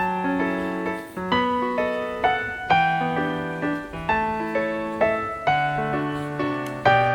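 Gentle piano music: single notes struck at a steady pace, about two a second, each ringing and fading over a held low note.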